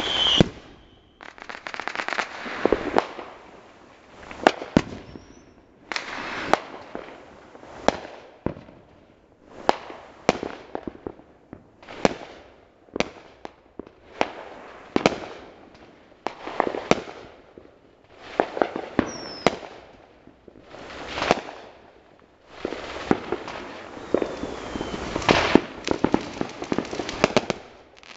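Aerial fireworks going off in a steady volley: sharp bangs about every one to two seconds, each fading off over a second or so, with a denser cluster of bangs near the end.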